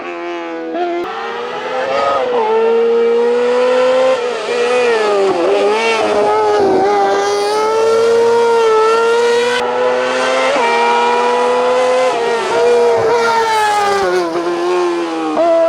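Race car engine at full throttle, rising steadily in pitch through each gear with sudden drops at the gear changes, several times over.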